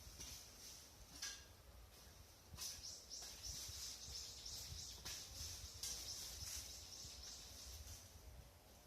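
Faint high-pitched chirping in rapid repeated strokes, with a few sharp clicks or rustles scattered through it and a low rumble underneath.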